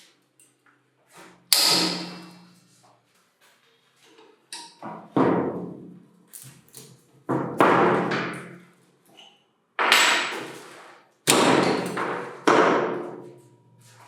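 Hammer blows on metal while an old concrete vibrator is being taken apart: about six heavy strikes, irregularly spaced, each ringing out for about a second, with a few lighter knocks between them.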